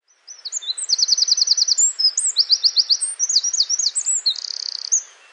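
Songbirds singing: rapid trills of repeated high notes mixed with single chirps, over a faint steady hiss, starting just after the beginning and dropping away just before the end.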